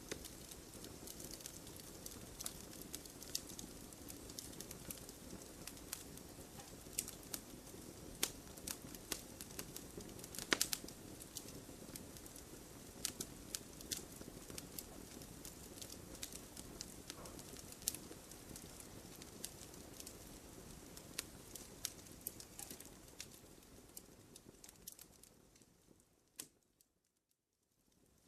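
Wood campfire crackling, with a steady low hiss and frequent sharp pops and snaps, one louder pop about ten seconds in. Near the end the fire sound fades away to near silence for a moment, then comes back.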